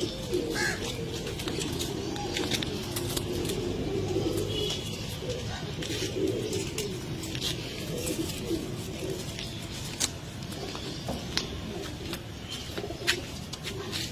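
Several pigeons cooing together, overlapping low warbling coos, with a few sharp clicks now and then.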